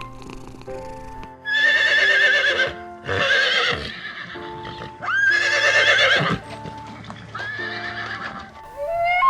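An animal calling four times, each call a loud, quavering cry lasting about a second, over background music.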